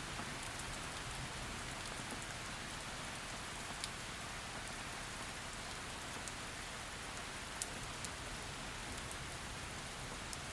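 Heavy, steady rain, a continuous hiss with scattered sharp drop clicks, the clearest a little before 4 s and about 7.5 s in.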